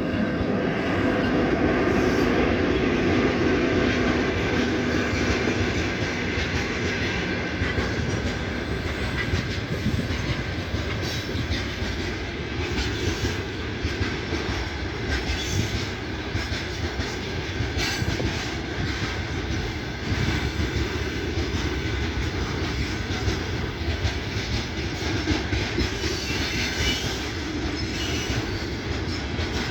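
A train passing close by: a loud steady rumble at first, then the rattling clickety-clack of wagon wheels over the rail joints, car after car.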